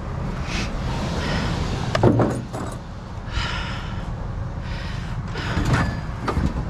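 Clattering and jangling of a load being shoved around in a truck, with sharp knocks about two seconds in and twice near the end, as it is pushed to let the truck close.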